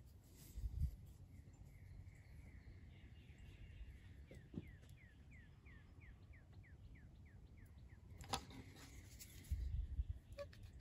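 A bird singing a trill of about a dozen quick down-slurred chirps, roughly four a second, starting near the middle and lasting about three seconds. A single sharp click follows, with soft low bumps near the end.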